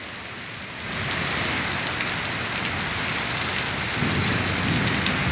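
Heavy storm rain and wind, a steady rushing hiss that swells up about a second in, with a low rumble joining from about four seconds in.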